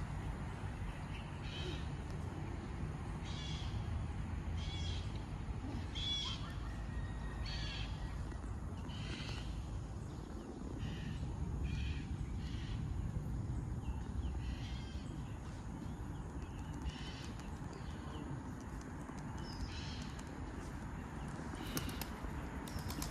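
Birds calling outdoors: short, sharp calls repeated about every second or two, over a steady low background rumble.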